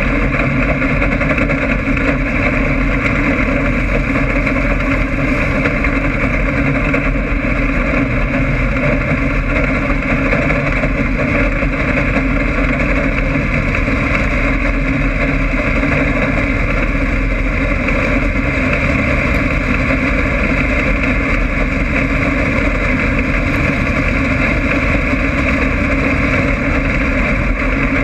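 Stock car's engine running hard, heard from inside the car's cockpit as a loud, steady drone that holds its pitch throughout.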